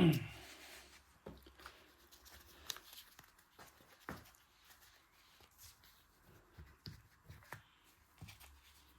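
Faint scattered clicks and light knocks of a rear brake caliper and its handbrake actuator being handled and worked by hand, with a louder knock at the very start.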